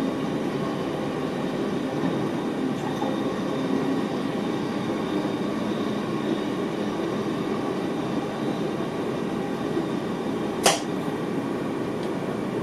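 NS VIRM double-deck electric train running on the line, heard from inside the driver's cab: a steady rumble of wheels and running gear. Near the end a single sharp knock stands out, louder than the rest.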